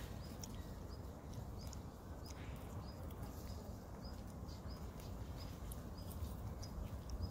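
A bird repeating short high chirps every half second or so, over a steady low rumble.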